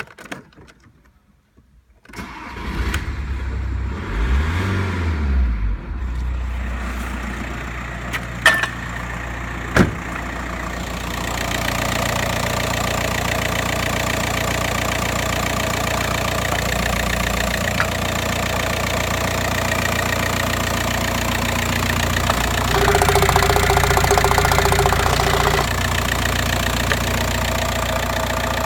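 Audi A4 1.9 TDI (AVF) four-cylinder turbodiesel engine being cranked and starting about two seconds in, then idling steadily. Two sharp clicks come a few seconds after it catches, and a higher tone is added for a couple of seconds near the end.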